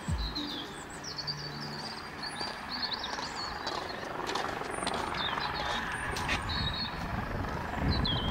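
Small songbirds chirping and trilling in short phrases over a steady hiss of outdoor background noise, with a low rumble coming up near the end.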